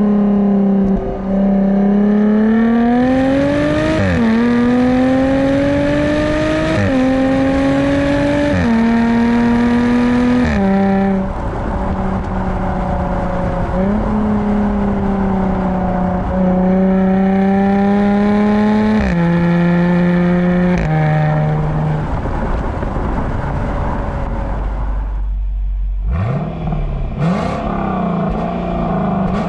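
A performance car's engine pulling hard through a run of automatic upshifts: its pitch climbs steadily in each gear and drops sharply at each shift, every two to three seconds. About three-quarters of the way through it eases off, goes briefly quiet, then revs again near the end.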